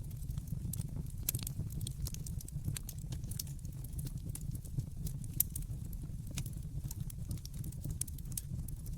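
Wood fire crackling in a fireplace: frequent sharp, irregular crackles and pops over a steady low rumble of the burning.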